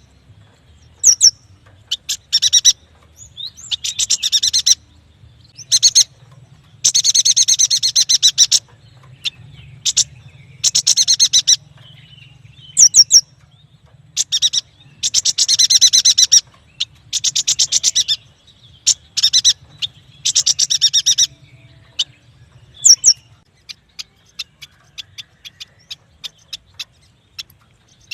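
Yuhina singing: a run of fast chattering trills, each about one to two seconds long, with short sharp high notes between them. Near the end the trills stop and only scattered short ticks remain.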